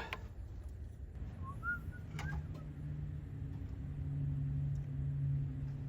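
A bird gives a short chirp, then a steady low hum sets in about two seconds in and grows louder partway through.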